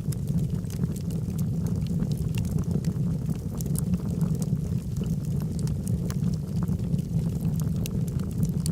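Logs burning in a fireplace: a steady low rumble of the fire with frequent small crackles and pops scattered throughout.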